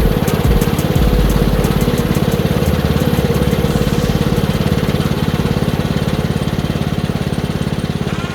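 Small combustion engine of a home-made band sawmill running steadily with an even, fast pulse. A higher steady whine fades out about halfway through.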